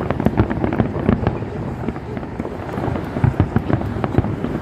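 Aerial fireworks going off: many sharp bangs in quick, irregular succession, some louder booms standing out among them.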